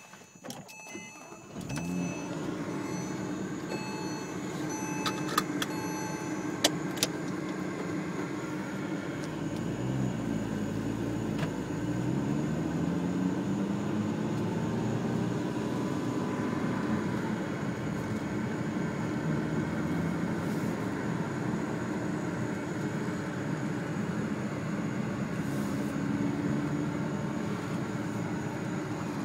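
A 2007 Porsche Cayman's flat-six engine and road noise heard from inside the cabin while driving, running steadily. A few clicks come about five to seven seconds in, and the engine note climbs in pitch from about ten seconds in as the car accelerates.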